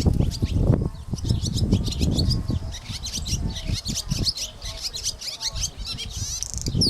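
Pet bird chirping in a rapid, continuous run of short high chirps, over irregular low thumps and rumbling.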